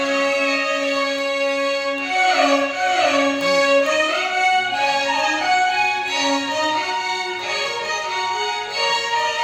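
Violin orchestra playing a Carnatic melody over a steady held note, the melody sliding between pitches in ornamented glides from about two seconds in.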